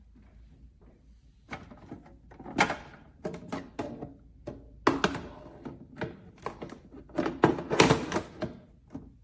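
A run of irregular knocks and clunks of hard objects being handled, starting about a second and a half in, with the loudest knocks near the middle and toward the end.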